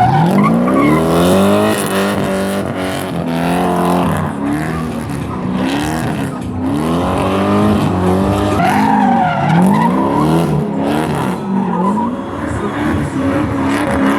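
Corvette-engined BMW 325i drifting: the engine revs up and down over and over as the throttle is worked, with tyre squeal, most clearly about nine seconds in.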